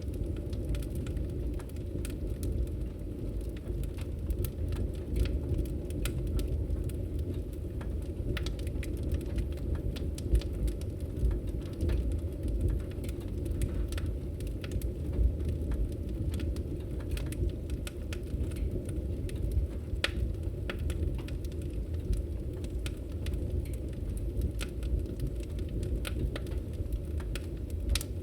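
Wood fire in a fireplace crackling: irregular sharp pops and snaps scattered over a steady low rumble of the burning fire.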